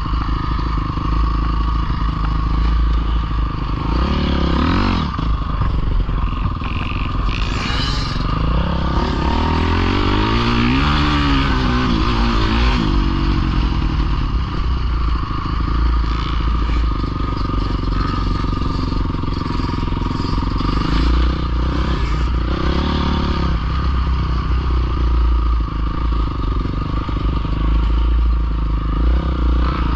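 Dirt bike engines running over a steady low rumble, with the revs rising and falling a few seconds in, again from about ten to thirteen seconds, and briefly near two-thirds of the way through.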